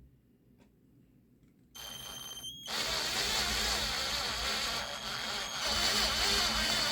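Electric drill drilling holes in a thin titanium plate: a high motor whine starts a little under two seconds in, then the bit bites into the metal and a loud, steady, hissing grind takes over.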